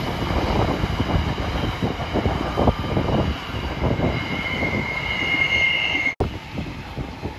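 Empty container flat wagons of a freight train rolling past on a curve, wheels rumbling and clattering over the rails. A high two-tone wheel squeal builds over the second half and is loudest just before the sound cuts off sharply about six seconds in; a quieter rumble follows.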